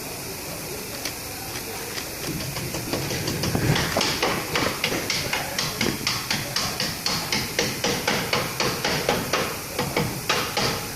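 Hammer blows on metal in a steady rhythm, about three a second, starting about two seconds in, over a steady hiss, typical of hammering on a truck's torque rod while changing its rubber bushings.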